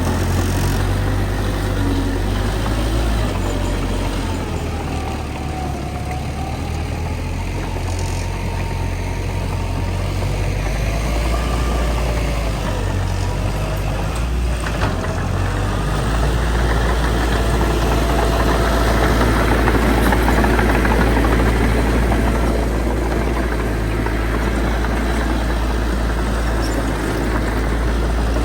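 Heavy diesel engine of earthmoving machinery running continuously, getting louder through the middle of the stretch as it works harder, with a single sharp click about halfway through.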